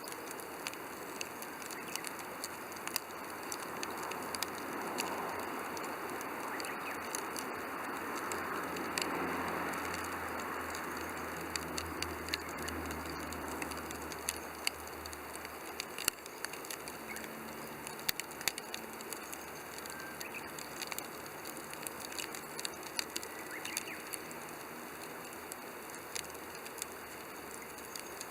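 Wood fire burning in a Coleman Fire Disk fire pit, crackling with frequent sharp pops and snaps scattered irregularly throughout. A softer rushing noise swells in the middle and then settles back.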